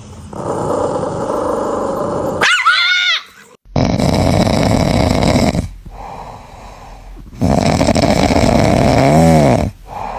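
A dog growling in several short stretches that start and stop abruptly, with a brief high whine about two and a half seconds in.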